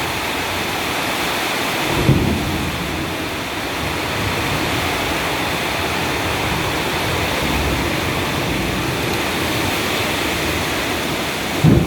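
Heavy rain pouring down in a steady hiss, with a short low thump about two seconds in and another near the end.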